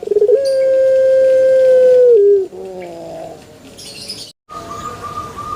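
Puter pelung dove (Streptopelia risoria) cooing: one long drawn-out note held for almost two seconds that drops in pitch at its end. After a brief break, a fainter, higher steady note follows.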